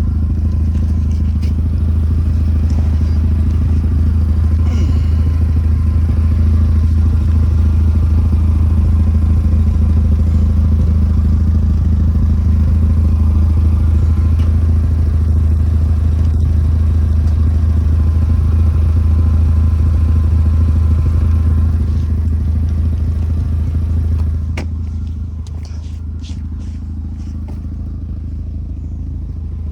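The 1994 Mazda RX-7's twin-rotor 13B rotary engine idling steadily, a loud, even low exhaust hum. About 24 seconds in it becomes quieter, and a few knocks and clatter follow near the end.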